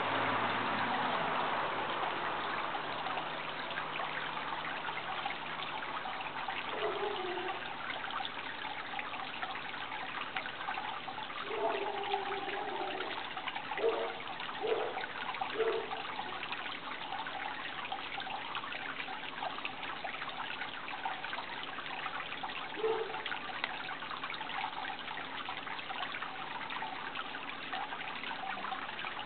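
Water trickling steadily, with a few short, low-pitched notes standing out, mostly in a cluster about halfway through.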